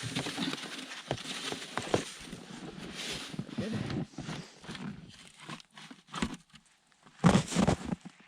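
Dry, cold snow crunching and thudding as it is shovelled and packed by hand into an igloo wall, in irregular scrapes and knocks, with the loudest crunching about seven seconds in.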